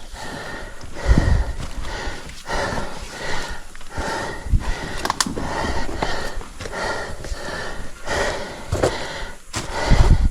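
A man panting heavily while climbing a cliff, loud breaths in and out about once a second from the strain of the climb.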